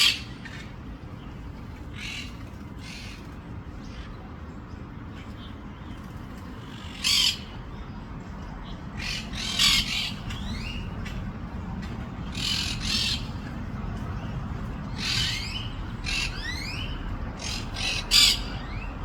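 Monk parakeets giving harsh, repeated squawks in scattered bursts, some with quick sliding notes, over a steady low background rumble.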